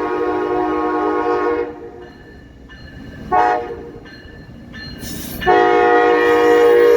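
Amtrak Wolverine passenger locomotive sounding its chord air horn: a long blast that stops about two seconds in, a short blast, then another long blast starting near the end. This long-short-long pattern is the close of the standard grade-crossing horn signal.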